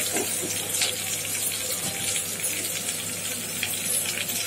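Chopped onions and curry leaves sizzling steadily in hot oil in a kadai, an even hiss.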